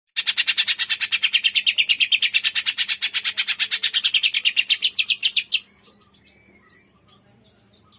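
Cucak ijo (greater green leafbird) singing a loud, rapid trill of evenly repeated high notes, about ten a second. The trill cuts off sharply about five and a half seconds in, leaving faint scattered chirps.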